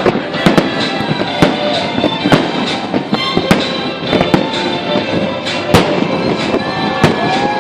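Fireworks salute: a rapid, irregular string of sharp cracks and bangs, several a second, over a continuous crackle.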